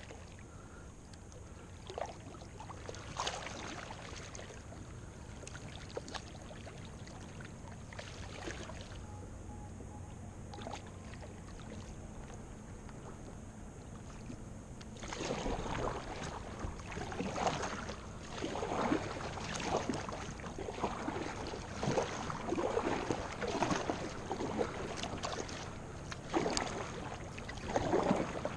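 Kayak paddle dipping and splashing in lake water: a few scattered strokes at first, then from about halfway through steady, louder strokes about one a second.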